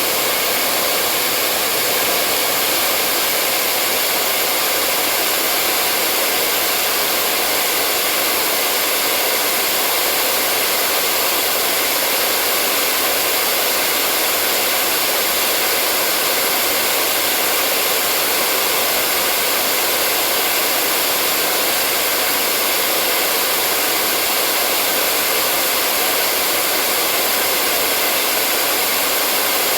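Electric hair dryer running steadily, a constant airy blowing noise with a faint steady hum, unchanging throughout.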